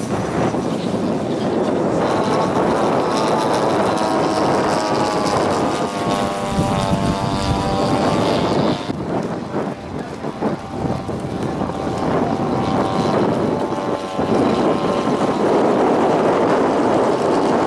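Propeller engines of giant-scale radio-control model warplanes running, the engine note wavering and shifting in pitch as they fly. It dips briefly about halfway through.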